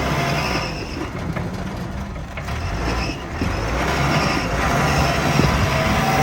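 Cat 416B loader backhoe's turbo diesel engine running, easing off for a couple of seconds about a second in and then building back up.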